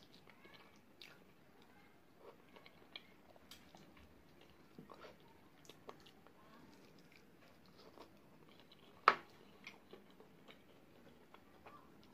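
Chewing and biting into sauced fried chicken wings, with many small mouth clicks as meat is pulled off the bones. One sharp click about nine seconds in is the loudest sound.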